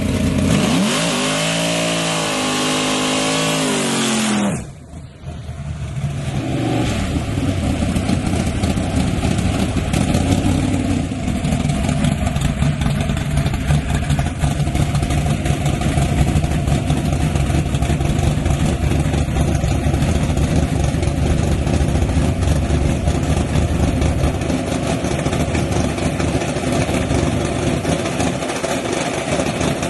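Drag-racing truck engines: a loud engine run with the pitch climbing and falling for about the first four seconds, then after a brief dip a steady engine running at low revs for the rest.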